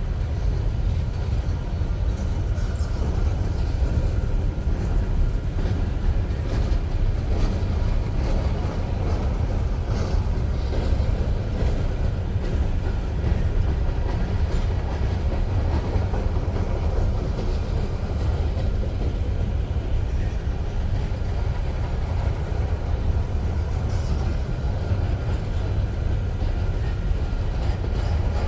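Union Pacific freight train cars rolling past, a steady low rumble with faint wheel clicks over the rails.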